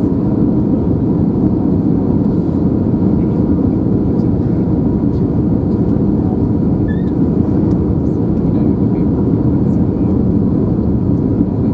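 Steady low rumble inside the cabin of an Airbus A321 airliner: engine and airflow noise, even in level throughout, with a faint thin whine above it.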